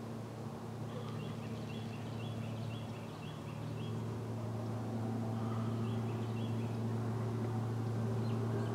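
A small bird singing a quick run of about six short, high chirping notes, then two more a few seconds later, over a steady low hum.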